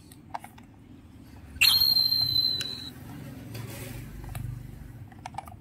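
Battery-operated toy rescue helicopter being handled and switched on: a few light plastic clicks, then a sudden high electronic tone from its sound chip lasting about a second, followed by a low hum.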